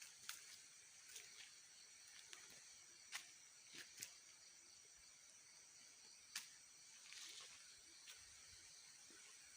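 Faint night insect chorus, a steady high-pitched trill from crickets, with scattered sharp clicks every second or so.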